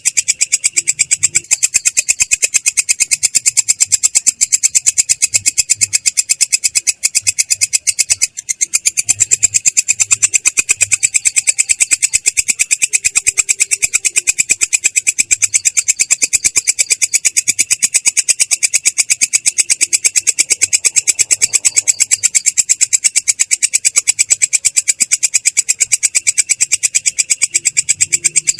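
Belalang kecek, a katydid, stridulating in a continuous roll: a rapid, even train of rough, high chirps at about eight a second, with two brief breaks about seven and eight seconds in.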